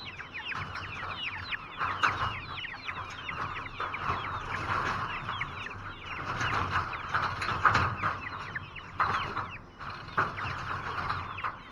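A flock of chickens peeping and clucking, with many short, high chirps falling in pitch and overlapping one another.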